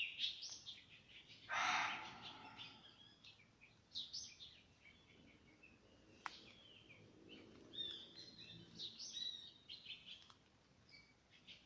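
Birds chirping and calling, many short high notes overlapping. About one and a half seconds in comes the loudest sound, a brief harsh burst of noise, and around six seconds a single sharp click.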